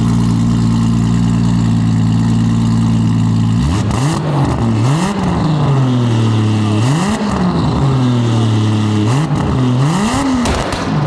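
Turbocharged 2JZ inline-six of a 1000 hp drift car idling steadily, then revved in several quick throttle blips from about four seconds in, pitch rising and falling each time. This is the stock exhaust sound with no whistle in the tailpipe.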